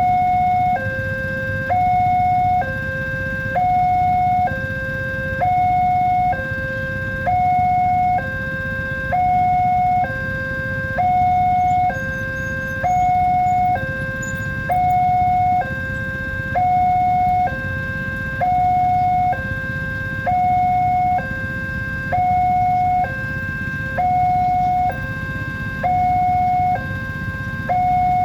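Railway level-crossing warning alarm sounding: an electronic two-tone signal alternating between a higher and a lower note, each held about a second, repeating steadily. It warns that a train is approaching and the crossing barriers are closed. A steady low background rumble runs underneath.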